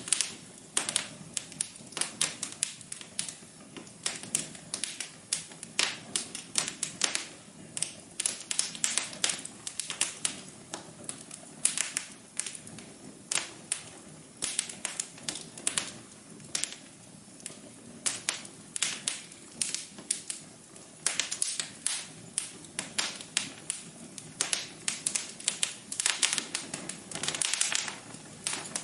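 Wood fire crackling in a fireplace: a steady run of irregular sharp pops and snaps over a low hiss.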